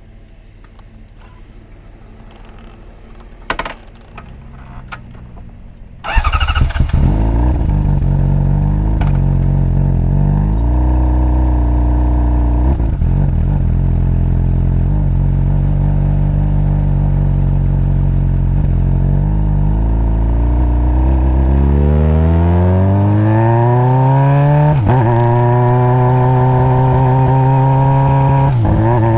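2021 Honda CBR600RR's inline-four engine on its stock exhaust: a few clicks, then it starts about six seconds in and settles into a steady idle. Near the end the revs climb twice, with a short dip between the climbs.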